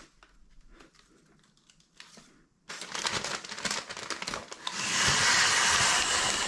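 Handling noise with rustling and clicks, then a loud steady rushing hiss, like air blowing from a small motorised blower, that starts about two thirds of the way in.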